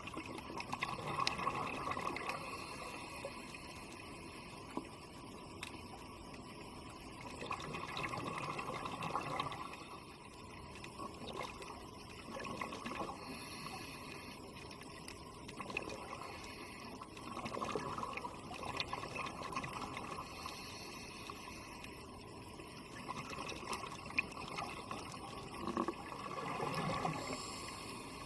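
Scuba diver's exhaled breath bubbling out of the regulator underwater, in swells of bubbling that come about every five seconds, with steady underwater hiss between them.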